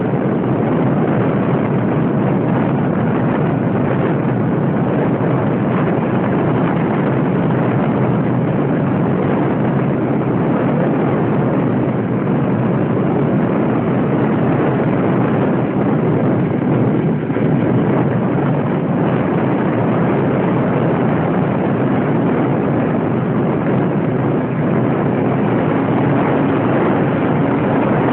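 Radio-control airplane in flight: a loud, steady rush of motor, propeller and airflow noise.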